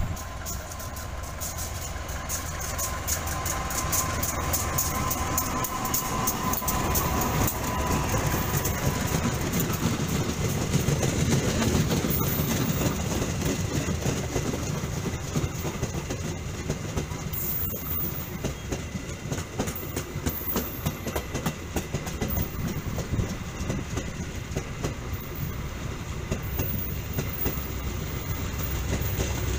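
Diesel-hauled passenger train passing at speed, its wheels clicking rapidly over the rail joints in a steady clickety-clack. The rumble grows louder over the first ten seconds or so.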